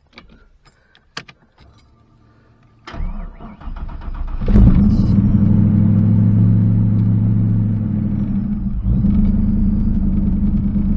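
A few light clicks, then the 1986 Ford Mustang's engine is cranked by the starter for about a second and a half and catches, settling into a loud steady fast idle, with a brief dip in level near the end. It fires up quickly on its new MSD ignition box.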